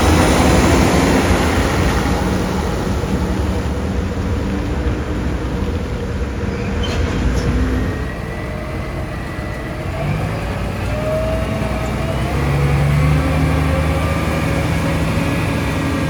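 Concrete mixer truck's diesel engine running with a heavy, low sound; a steady engine note comes in about ten seconds in and rises a step shortly after.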